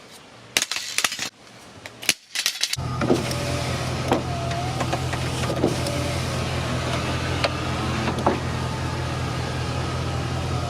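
A few clicks and knocks, then, about three seconds in, a Chevy pickup truck's engine comes in and runs steadily at idle.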